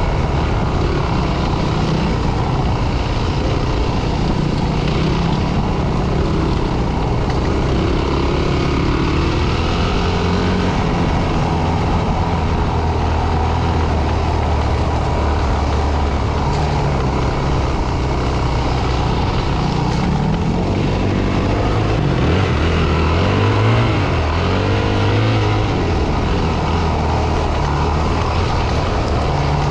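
Dirt bike engine running under way, its pitch shifting up and down with the throttle, with rapid rises and falls about two-thirds of the way through, over a steady rushing noise.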